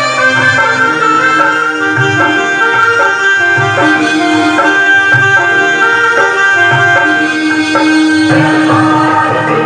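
Instrumental film-song music: a saxophone melody in raag Kalyan holding long notes over a steady tabla-style drum rhythm.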